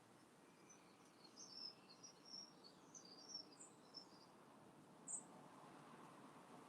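Faint, scattered high chirps of small birds, clustered in the first half and then two brief high notes, over a quiet background hiss.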